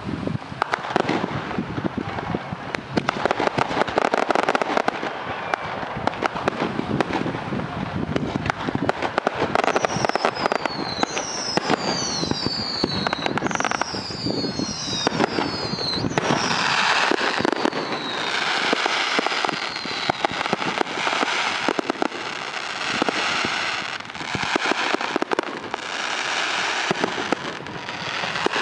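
Fireworks display: a rapid string of bangs and crackles. About ten seconds in come several falling whistles, and from about sixteen seconds a dense crackling shower.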